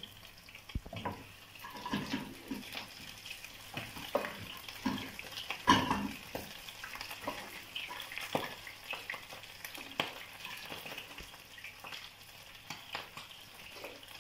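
Pressure-cooked chicken pieces and browned onions frying in oil in a nonstick frying pan, a steady sizzle. Scattered clicks and knocks sound against the pan, the sharpest about six seconds in.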